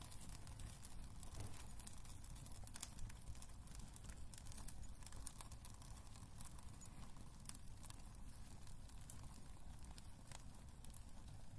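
Wood fire crackling in a fireplace: frequent irregular snaps and pops over a low, steady rumble of the flames.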